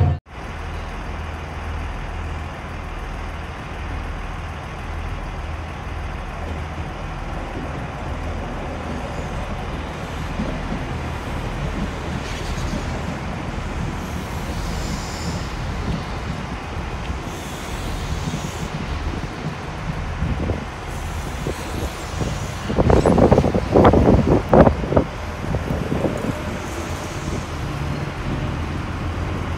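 Loco-hauled passenger train of Mk3 coaches running past with a class 68 diesel locomotive, a steady low rumble of wheels on rails. About 23 to 25 seconds in, there is a louder burst of clattering.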